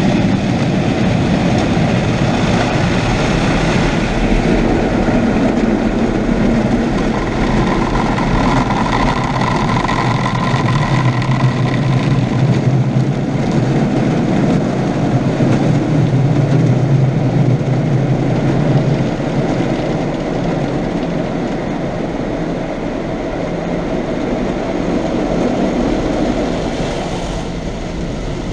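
Automatic car-wash machinery working over the car, heard from inside the cabin: a loud, steady rush of noise with a machine hum that swells through the middle and eases off near the end.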